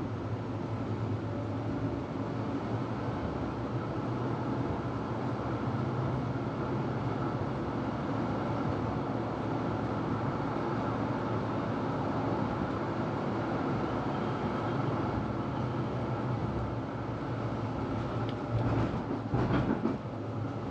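Melbourne tram running along the track, heard from inside the passenger cabin: a steady rumble of wheels on rails and running gear. A few louder knocks and rattles come near the end.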